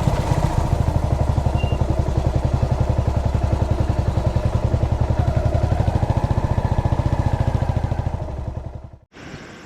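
Yamaha SR400's carbureted single-cylinder engine running at low revs, a steady train of even exhaust beats. It fades out near the end and is cut off abruptly.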